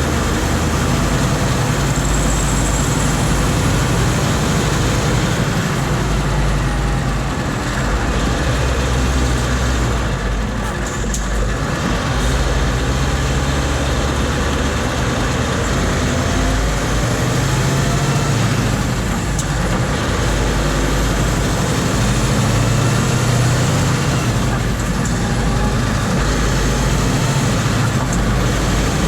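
Scania R520's V8 diesel engine running steadily, its deep low note swelling and easing several times.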